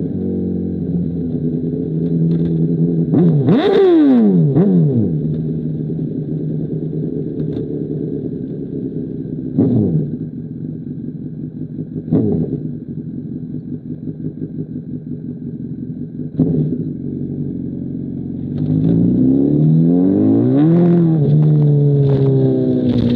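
2005 Honda CBR1000RR's inline-four running through an SC Project CR-T exhaust, holding a steady note. About four seconds in it climbs sharply and drops back. Three short throttle blips follow, then a longer climb and fall in revs near the end.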